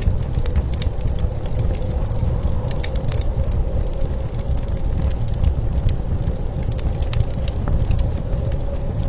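Fire crackling with scattered sharp pops, over a steady low rumble of blizzard wind.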